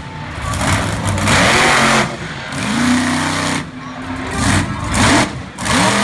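Monster truck engine revving hard, its pitch rising and falling several times in quick succession, with loud bursts at the top of each rev.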